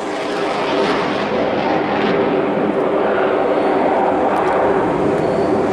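A train running past: a steady loud rumble with a hum in it that grows louder about a second in and then holds.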